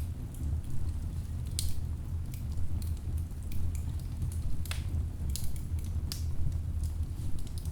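Wood fire in a fireplace burning with a steady low rumble of flame and irregular sharp crackles and pops from the logs.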